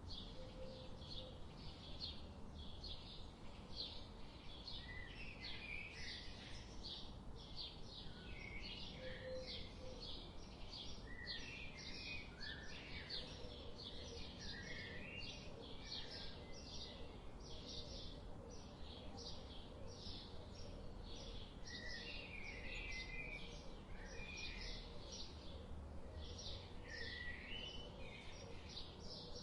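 Birdsong ambience: several birds chirping continuously, a steady stream of short high chirps with scattered lower, warbling phrases over a faint low rumble.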